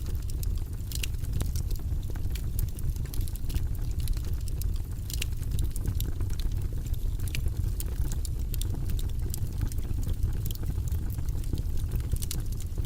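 Wood fire burning in a fireplace: a steady low rumble with many small, irregular crackles and pops.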